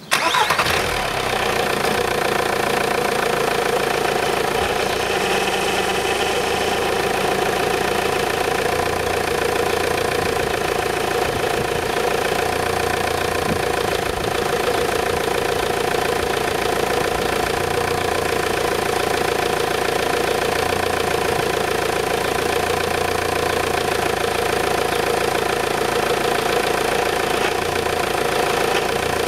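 A VW 1.9 TDI four-cylinder diesel engine (AFN) comes on abruptly and then idles steadily, with a steady whine from the power steering pump. The pump had been running low on fluid because of a leak and has just been topped up with ATF.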